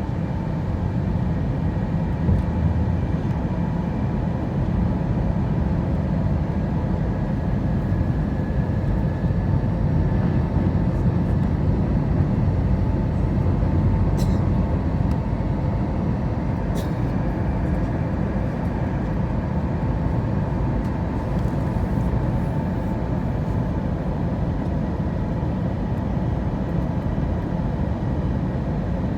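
Steady airliner cabin noise on the approach to landing: a low, even rush of engines and airflow with a faint steady whine over it. Two brief clicks come a little under halfway through.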